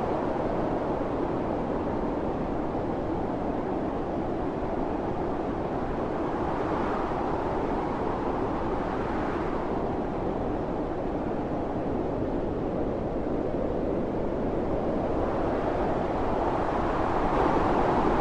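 Strong wind blowing steadily in a snowstorm, swelling in gusts about halfway through and again near the end.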